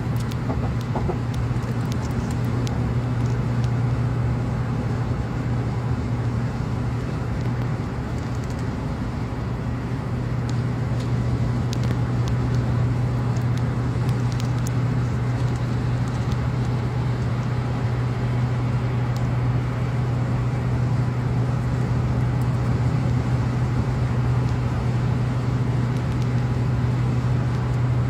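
Car driving at highway speed: steady road and tyre noise with a low, even drone, growing slightly louder about a third of the way through.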